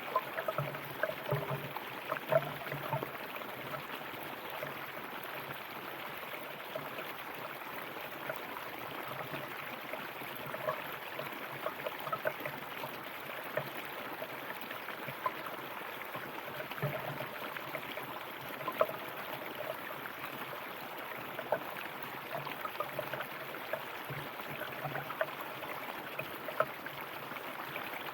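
River water flowing steadily, with small gurgles and splashes scattered throughout.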